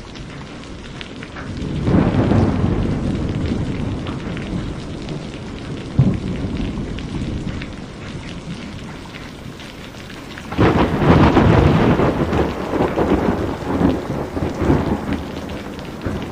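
Steady rain with rolls of thunder: a long rumble begins about two seconds in with a sharp crack near six seconds, and a second, louder roll breaks out about ten and a half seconds in and rumbles on.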